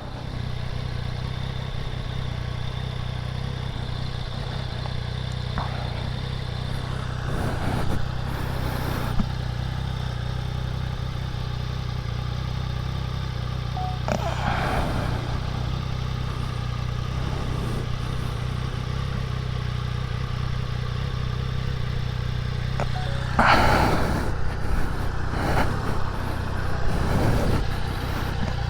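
Triumph Daytona 660's three-cylinder engine idling steadily while the bike stands, hot from the ride. A few louder swells of passing noise come and go over it, the biggest near the end.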